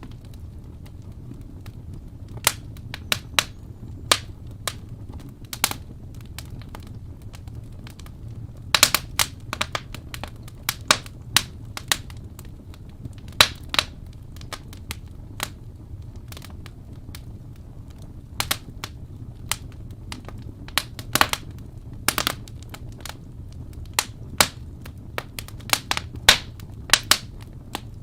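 Wood fire burning in a fireplace: logs crackling and popping at irregular moments over a steady low rumble of the flames.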